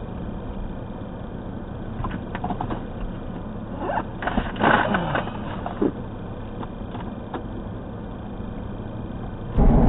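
Car driving noise recorded from inside the vehicle: a steady low hum of engine and road. A few sharp clicks or knocks come in the middle, and a brief louder, noisier sound with a falling pitch comes about halfway through. Near the end the audio jumps abruptly to a much louder rumble.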